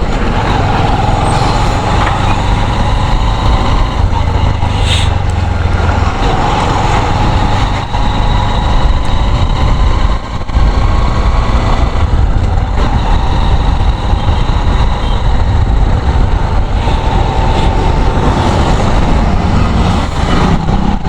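Motorcycle running at highway cruising speed, its engine under a steady rumble of wind and road noise on the rider's microphone, with a brief dip in loudness twice near the middle.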